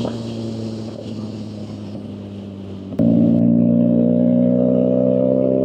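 Motorcycle engine running at a steady speed while riding. About three seconds in the sound jumps abruptly to a louder, steady engine note that rises slightly in pitch.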